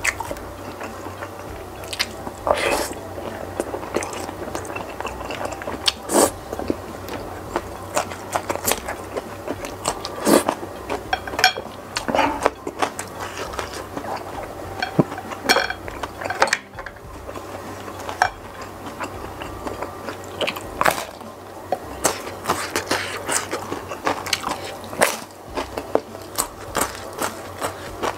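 A person chewing and biting food with irregular crunchy bites and wet mouth noises: eating spicy meatball soup with crispy fried tempe and raw green chilies.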